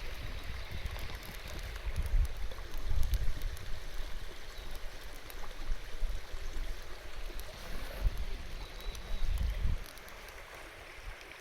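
River stream murmuring steadily, with gusts of wind buffeting the microphone that die away near the end.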